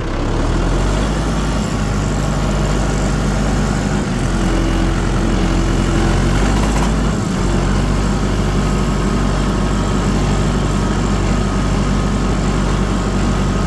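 Tractor engine running steadily as the tractor drives along in third gear, low range. The engine note steps up slightly about half a second in and shifts again about seven seconds in.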